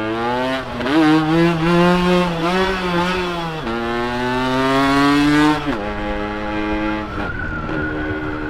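Ported Yamaha RX two-stroke single-cylinder motorcycle engine accelerating hard through the gears. Its pitch climbs in each gear and drops at three quick upshifts, then settles to a lower, steadier note near the end.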